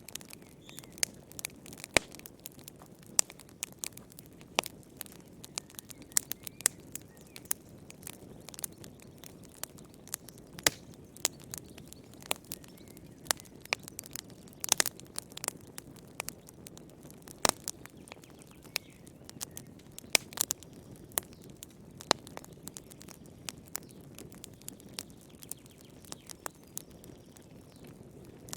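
Wood fire crackling in a fireplace: frequent irregular sharp pops and snaps of varying loudness over a low steady rush of the flames.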